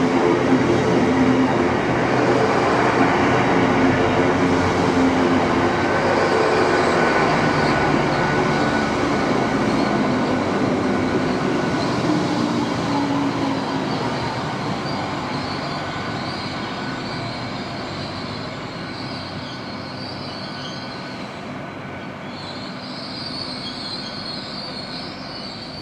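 Passenger train running along the line, loudest at first and fading steadily as it draws away. A thin high-pitched whine or squeal from the rails and wheels lingers in the second half.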